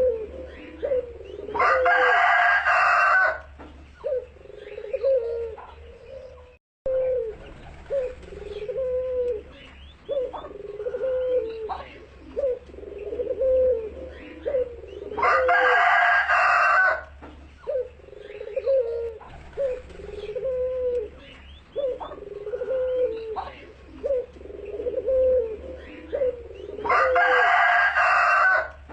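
Barbary dove (burung puter) cooing over and over in short, low notes. Three times, a louder, higher-pitched call of about a second and a half rises over the cooing, near the start, in the middle and near the end.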